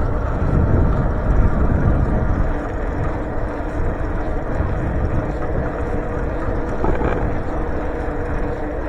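Steady wind and road noise on the microphone of a moving bicycle.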